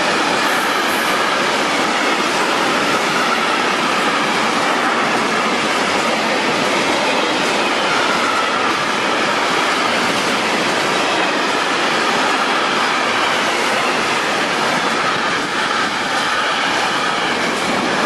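Container freight train passing close by at speed: a steady rush of steel wheels on the rails from the wagons, easing slightly near the end as the last wagons go by.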